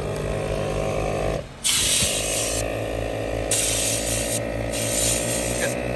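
Onboard air compressor running with a fast, steady pulsing, while compressed air is blown in repeated hissing blasts through a wet reusable air filter to dry and clean out creek water. The compressor dips briefly about a second and a half in, just before the first blast of air.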